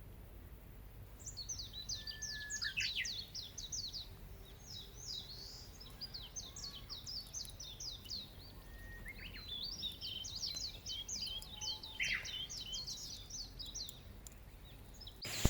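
Songbird singing: long phrases of rapid, high, chattering notes, three in all, with a pause of about two seconds before the last.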